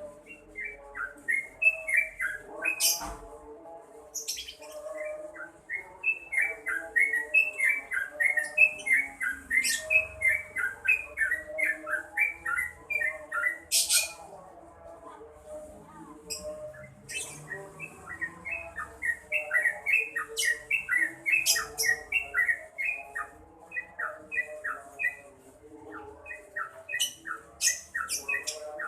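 Sooty-headed bulbul (trucukan) singing hard: quick runs of short, bright notes in bubbly phrases, broken by a few brief pauses.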